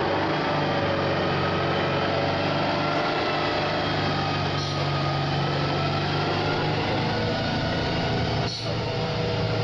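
Heavy truck's diesel engine running under load, its note shifting a few times, with a brief drop in level near the end.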